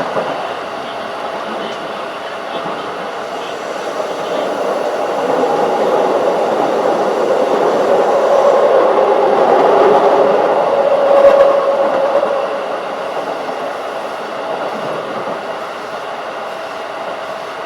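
Keikyu 1500 series field-chopper-controlled electric train running at speed, with motor and wheel-on-rail rolling noise. The sound grows louder through the middle, peaks about eleven seconds in, then settles back.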